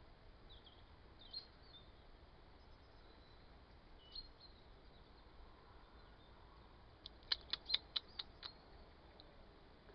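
Faint bird chirps over a quiet rural background, then a quick run of about seven sharp, high chirping notes, about five a second, a little past halfway.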